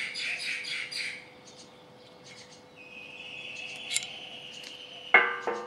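Birds calling: a fast chattering trill in the first second, a few thin chirps, a steady high whistle held for over a second, a sharp rising chirp, and a short loud squawk about five seconds in.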